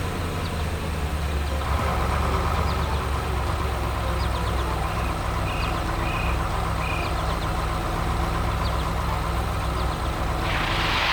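A heavy vehicle engine running steadily at idle, a cartoon sound effect. Three short beeps sound about halfway through, and a loud hiss comes in near the end.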